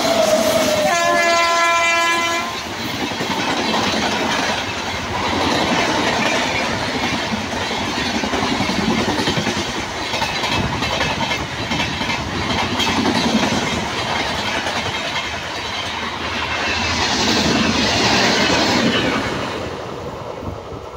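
Indian Railways WAP-7 electric locomotive's horn sounds briefly about a second in as the express passes at speed, then the coaches rush by with a rhythmic clickety-clack of wheels over rail joints, fading near the end.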